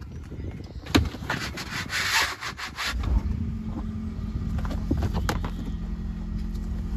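Rubber boot liner rubbed and scraped as it is handled, with a couple of clicks. About three seconds in, the Hyundai Ioniq hybrid's 1.6-litre petrol engine kicks in and runs with a steady low drone as the car switches from electric to petrol.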